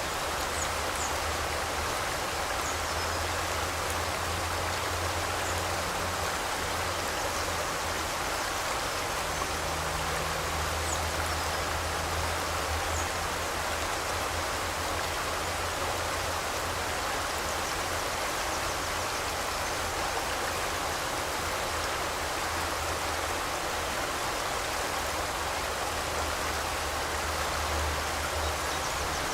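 A river or stream of water flowing and rushing steadily, with a few faint high chirps in the first half.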